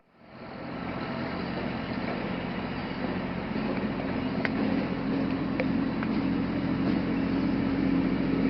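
A motor running steadily with a low hum, starting out of silence and building up over the first second; a few faint clicks around the middle.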